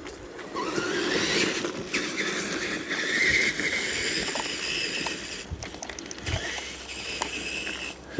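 Tamiya TXT-2 RC monster truck driving through grass and brush: its motor and drivetrain whine, rising in pitch about half a second in as it speeds up, then holding high over a steady rustle and scrape, with a few small clicks in the second half.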